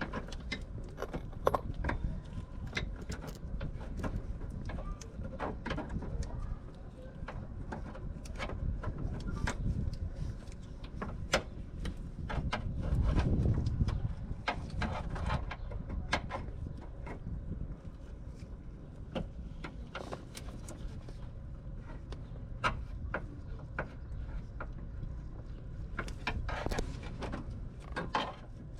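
Scattered clicks, knocks and light clinks of hand work on a car, over a steady low rumble, with a louder stretch of rumble about halfway through.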